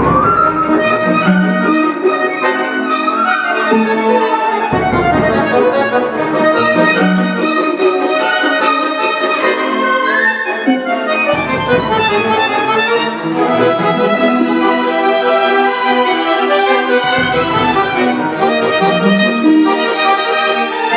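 Concert accordion playing a solo line over a chamber orchestra's strings, with quick rising runs and low bass notes recurring every few seconds.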